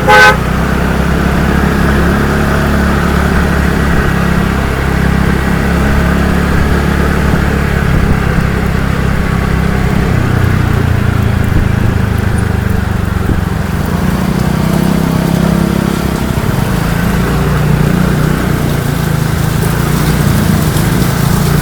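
A vehicle's engine running steadily, with a brief loud tone right at the start.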